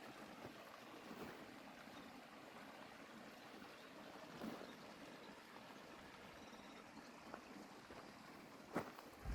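Near silence: a faint steady hiss of outdoor ambience, with a soft knock about halfway through and a sharper click near the end.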